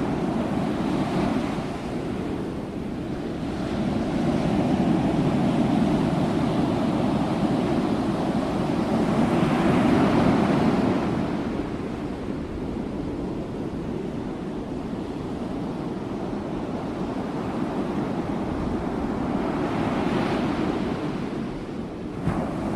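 Ocean waves breaking and washing on a shore, rising and falling in slow swells every several seconds, with a steady rush in between.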